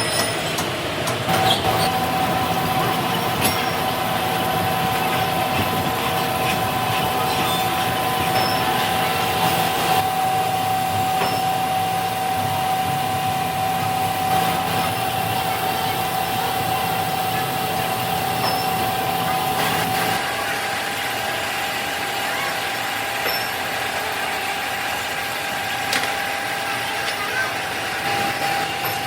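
Metalworking factory machinery running: a steady mechanical din with a high, even whine from a machine that drops away about two-thirds through, and a few sharp metallic clicks.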